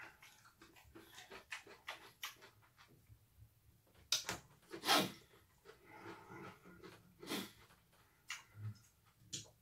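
Close-miked mouth sounds of eating: wet chewing smacks and clicks in an uneven string, with a few louder ones about four to five seconds in and again past seven seconds.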